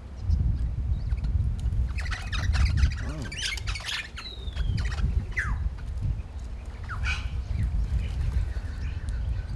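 Wild birds at a feeding spot squawking harshly, a cluster of calls in the middle with one short falling whistle, and another squawk later, over a steady low rumble.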